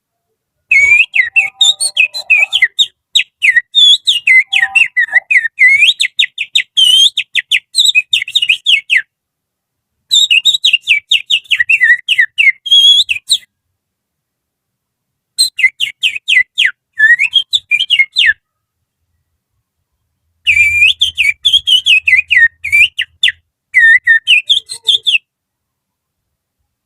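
Finger whistle imitating the song of an Oriental magpie-robin (kacer): fast, chirping, sharply gliding whistled notes. They come in four phrases with short silent pauses between them.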